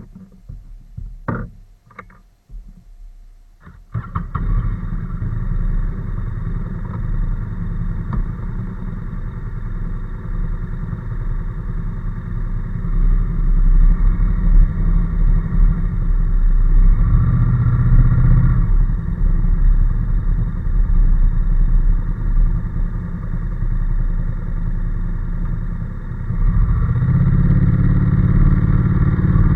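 Honda NC750S parallel-twin motorcycle engine running under way, with road and wind noise. A few knocks in a quiet stretch at first, then the steady running sound sets in about four seconds in and grows louder near the end.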